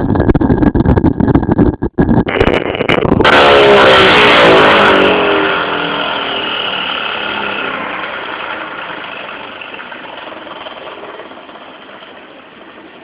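Homemade 'fuelless' electric motor running fast with a dense, rapid rattling buzz. About three seconds in it cuts off with a short hiss and spins down, its pitch falling as it fades over the next ten seconds.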